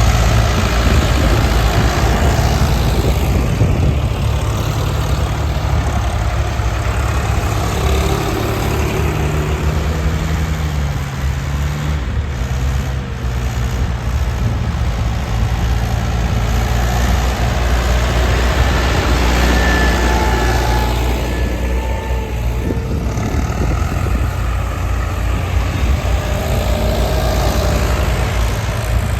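Heavy diesel machine engine running steadily. The engine note rises a little and falls back about ten seconds in.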